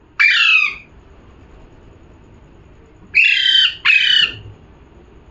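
Pet parrot giving three loud, harsh squawks: one, then a quick pair about three seconds later.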